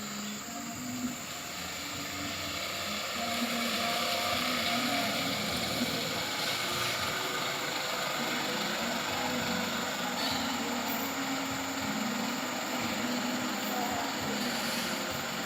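Diesel dump truck engine running, getting louder over the first few seconds and then holding steady.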